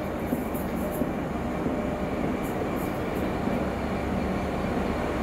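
Train running through the station: a steady, continuous rumble with a low hum and faint high-pitched flickers.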